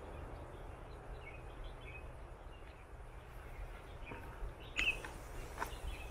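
Small birds chirping faintly and intermittently in woodland, with a brighter chirp about five seconds in, over a low steady rumble. A few light clicks come near the end.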